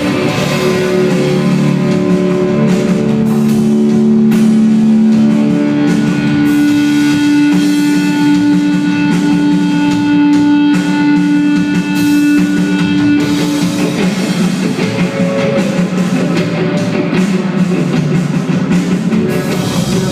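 Rock band playing live: electric guitars holding long sustained notes over a drum kit, in an instrumental passage without singing.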